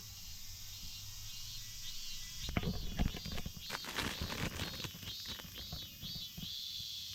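Rustling and clicking handling noises, a burst of small knocks and crinkles in the middle, over a steady background of insects chirping.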